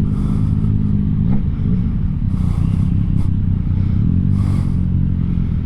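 Motorcycle engine running at low revs through a slow, tight U-turn, its note wavering slightly as the throttle and clutch are fed.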